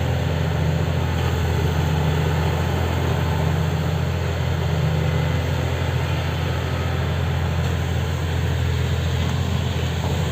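Sany 500H excavator's diesel engine running at a steady speed, a deep even hum that does not change.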